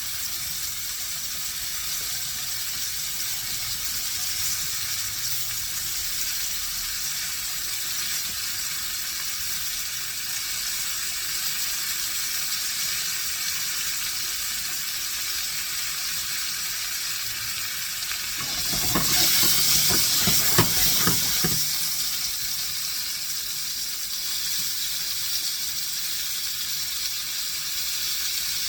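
Chicken breasts sizzling steadily as they fry in hot oil in a pan, with a louder stretch of sizzling and rumble for about three seconds past the middle.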